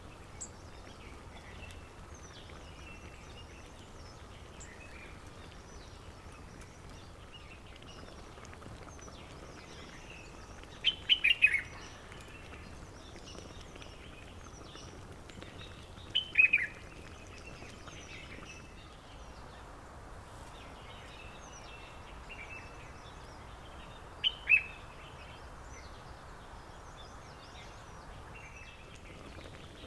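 Several wild birds calling and singing over a steady outdoor hiss. One louder bird gives a short burst of a few quick falling notes three times, about a third of the way in, around halfway, and again near the end.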